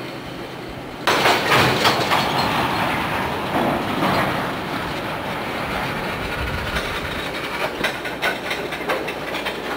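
Freight train cars rolling past close by: a steady rumble of steel wheels on rail that gets suddenly louder about a second in, with sharp clicks near the end as wheels pass over rail joints.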